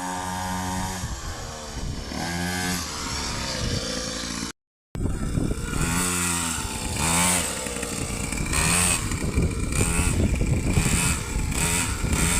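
Motocross bike engine revving up and down over and over as it is ridden. Its sound breaks off completely for about half a second, a little over four seconds in.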